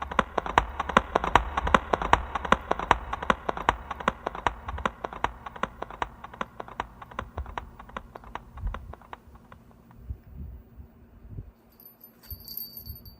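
Quick, evenly spaced running footsteps, about four a second, that grow fainter and die away about ten seconds in.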